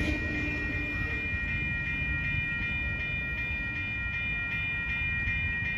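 Low rumble of a departing autorack freight train just after its last car has passed. Over it a railroad crossing bell rings on at a steady beat, about three strikes a second.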